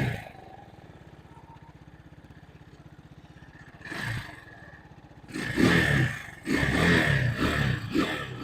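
A Vitacci GTT250's 229cc single-cylinder four-stroke engine idling with a fast, even low pulse. The throttle is blipped once about four seconds in, then revved several times in quick succession.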